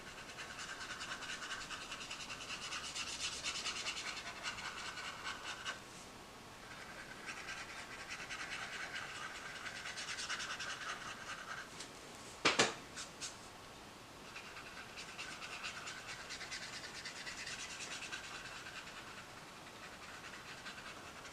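Tombow brush marker tip rubbing over paper in quick back-and-forth strokes, in three stretches of a few seconds each. A single sharp click comes about twelve seconds in.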